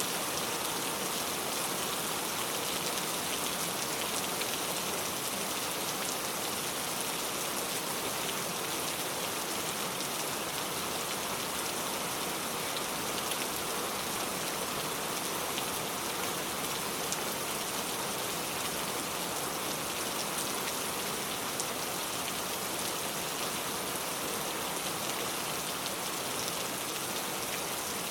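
Steady rain falling, a dense even hiss of countless small drops hitting surfaces, with fine individual drop ticks through it.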